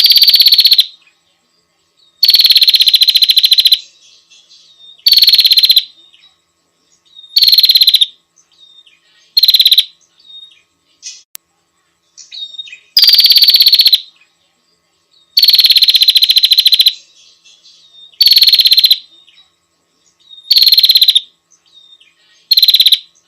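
A prinia (prenjak/ciblek) gives about ten loud, harsh, rapid trilling bursts, each half a second to a second and a half long, spaced a couple of seconds apart, with soft chips between them.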